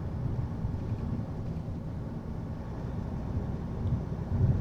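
Semi truck driving: steady low drone of the diesel engine and road noise, growing a little louder near the end.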